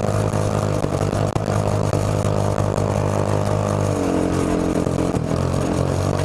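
Go-kart engine running steadily under throttle while driving, its pitch dropping briefly about four seconds in before picking back up.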